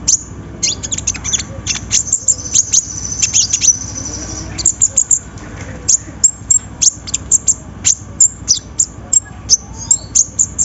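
Kolibri ninja sunbird singing: a fast run of very high, sharp chirps, several a second, with a sustained high trill about two to four and a half seconds in.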